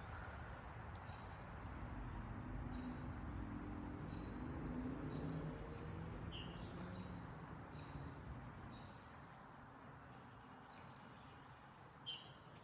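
Faint background ambience: a steady thin high tone and a low hum that swells and fades in the first half, with two short chirps, about six seconds in and near the end.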